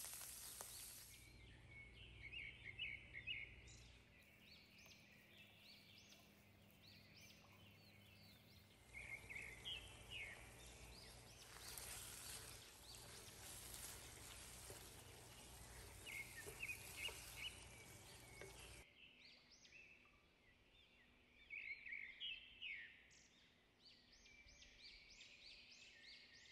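Faint birds chirping in short bursts that come back every few seconds, over quiet background hiss. A frying sizzle dies away in the first second.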